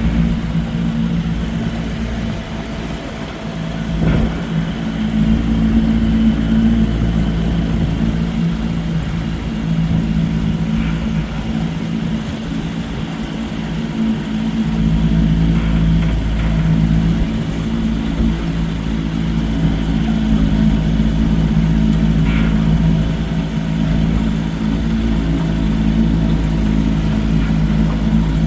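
Vintage Johnson 20 hp two-cylinder two-stroke outboard running steadily under way, over a low, unsteady rumble. The engine note swells slightly a few seconds in and again about halfway through.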